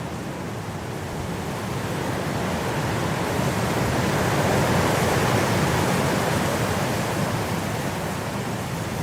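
Blizzard wind rushing steadily, swelling into a gust in the middle and easing off again.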